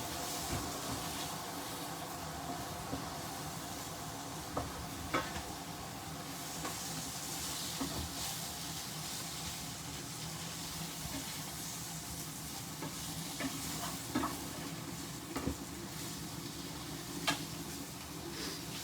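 Jerk-seasoned chicken pieces sizzling in a frying pan with a steady hiss, while a utensil stirs them, giving a few sharp clicks and taps against the pan.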